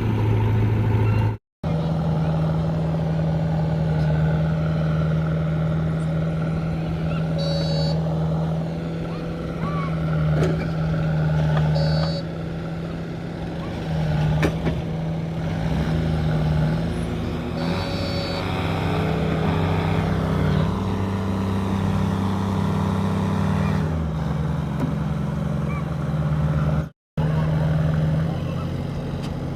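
Heavy diesel machinery engine running steadily with a held low hum that shifts down in pitch about three-quarters of the way through, broken twice by a brief gap.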